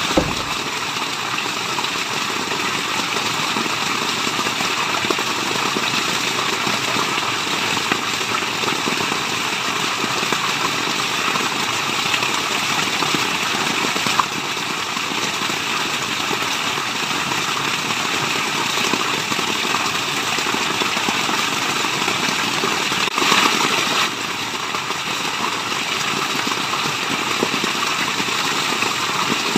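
Waterfall, with water rushing in a steady, even noise. There is a brief louder surge a little over three-quarters of the way through.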